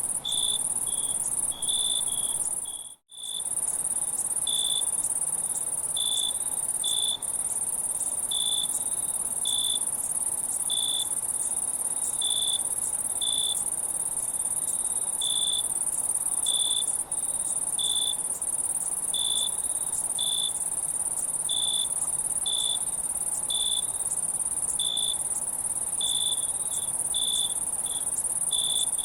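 Crickets chirping: short high chirps about once a second over a constant high-pitched insect drone, with a brief break in the sound about three seconds in.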